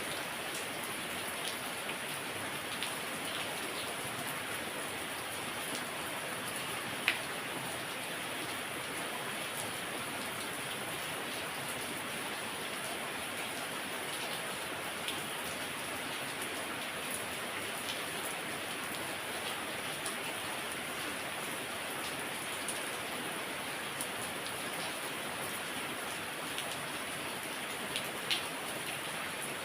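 Heavy rain falling steadily, a dense even hiss with individual drops ticking sharply on a surface here and there, one louder drip about seven seconds in and another near the end.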